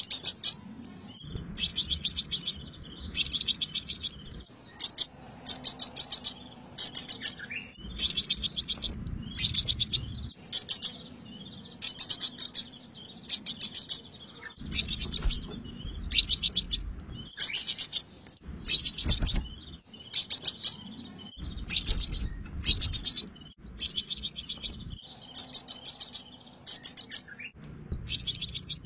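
Crimson sunbird calling over and over: bursts of rapid, high-pitched chipping trills, each about a second long with short gaps between, and thinner twittering notes in the gaps. A low rumble sits under some of the bursts.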